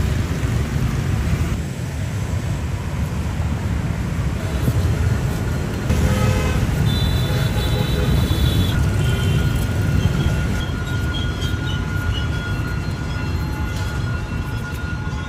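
A train running along the track close by: a heavy, steady low rumble, with thin high-pitched tones coming in about halfway through.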